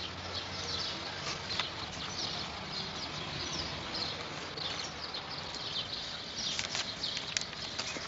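Small birds chirping in quick, scattered calls over a steady outdoor background hiss.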